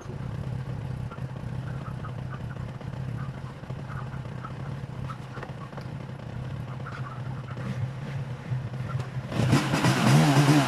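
Motorcycle engine running steadily at a constant low pitch. About nine seconds in, a much louder sound with a wavering pitch comes in over it.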